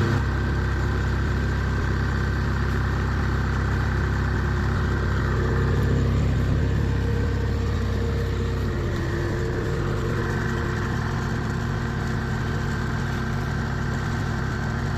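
Kubota DC70 Plus rice combine harvester's diesel engine running steadily, swelling slightly about six seconds in and settling a little lower in pitch after that.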